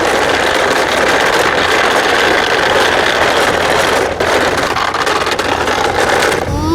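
Jet airliner engines making a steady, loud rushing noise, as for an airplane take-off, with a brief dip a little after four seconds.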